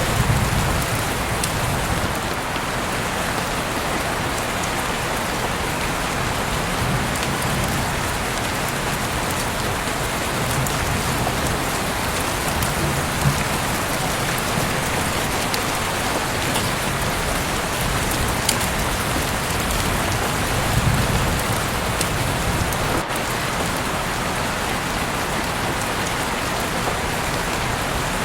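Heavy rain falling steadily outside an open window: a dense, even hiss with scattered sharper drop ticks and a few soft low swells.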